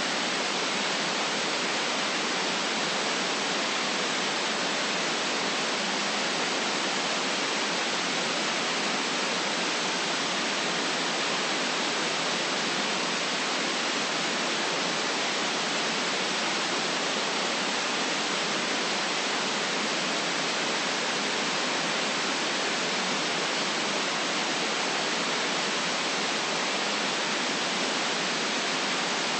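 Steady white noise: an even, unbroken hiss with no changes, weighted toward the high end and cut off above about 9 kHz.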